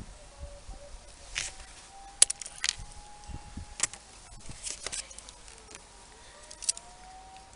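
Sharp clicks and snips from a hand tool being worked on electrical cable, about eight separate strokes, the loudest about two seconds in. Under them is a faint thin tone that drifts in pitch.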